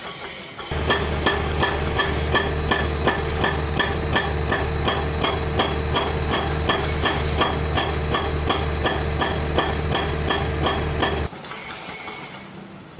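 Excavator-mounted hydraulic rock breaker hammering in a steady rhythm of about three blows a second over the excavator's running engine, stopping about eleven seconds in.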